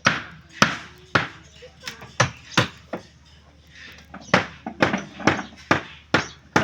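A hand tool striking repeatedly in the work of building a raft, about two sharp blows a second, with a pause of about a second and a half near the middle.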